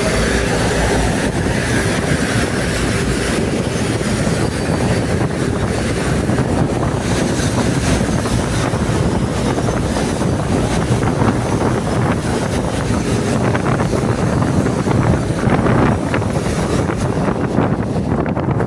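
Local EMU electric passenger train running along the track, a steady loud rumbling noise with faint clicks toward the end.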